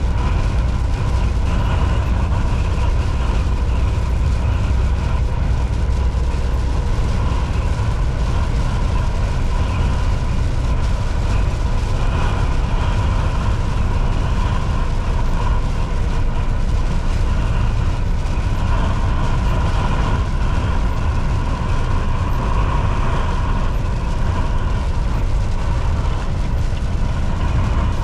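Volvo VNL 760 semi truck cruising at highway speed: a steady deep engine and road rumble with a faint steady whine above it.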